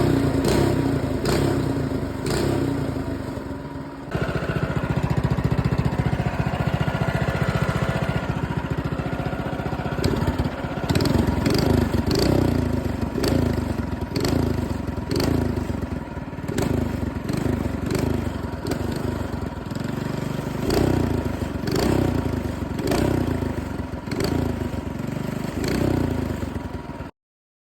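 Predator 212 Hemi single-cylinder four-stroke engine running, steady at first and then at higher speed. From about a third of the way in the throttle is blipped over and over, roughly once a second, each rev falling back. The sound cuts off abruptly near the end.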